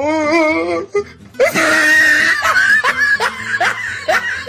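A person laughing hard: a long wavering cry first, then a breathy, wheezy burst, then a run of short rising 'ha' bursts, about three a second.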